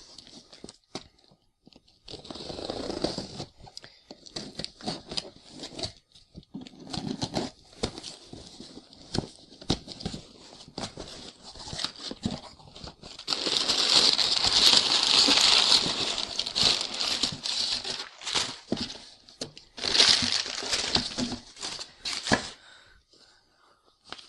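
Cardboard and plastic packaging being handled, torn and crinkled open: irregular rustling and clicks, with a long loud stretch of tearing or crinkling a little past halfway and another short burst later.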